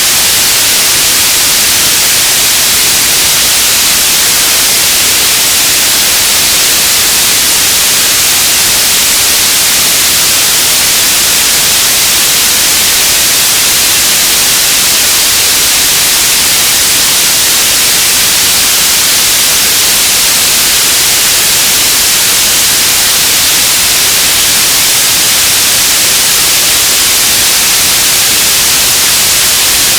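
Radio static: a loud, steady hiss that is strongest in the high treble and stays unchanged throughout.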